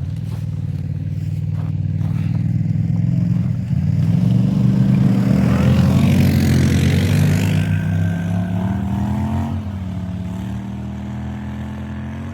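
Motor vehicle engine running. It rises in pitch and gets louder about four seconds in, with a rush of noise at its loudest around the middle, then settles to a steadier tone near the end.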